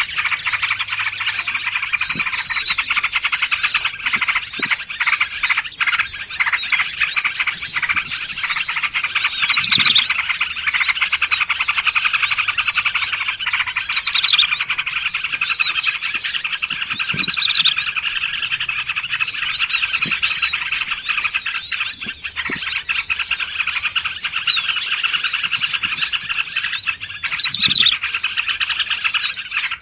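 Dense chorus of small songbirds, many overlapping chirps and trills with bursts of fast high trilling, as played from a bird-trapping lure recording.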